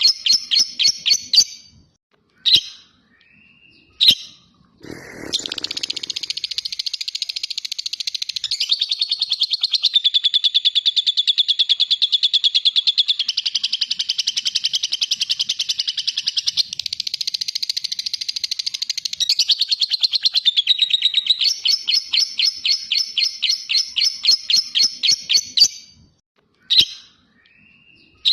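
Lovebird 'ngekek': a long, rapid chattering trill of shrill repeated notes lasting about twenty seconds, with a few short single calls before and after it.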